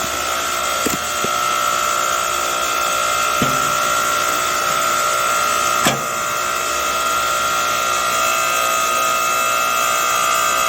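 Hydraulic log splitter running, its motor and pump giving a steady whine, with a few sharp knocks of wood under the ram.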